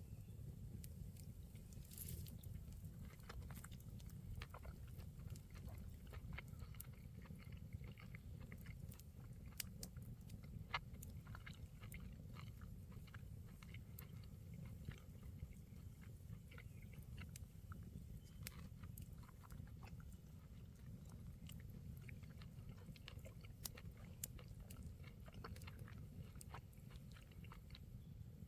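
A person chewing and biting food, with faint irregular crunchy clicks over a low steady background hum.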